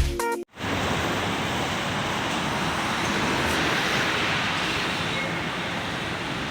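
Steady, even rushing noise with no distinct tones or rhythm, starting about half a second in after the music stops.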